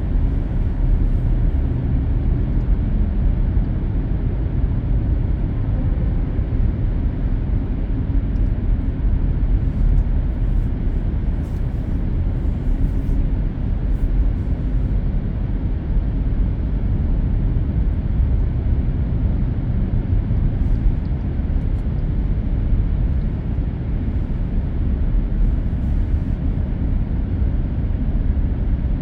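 Steady low rumble of a car driving at speed on an expressway, tyre and road noise heard from inside the car's cabin.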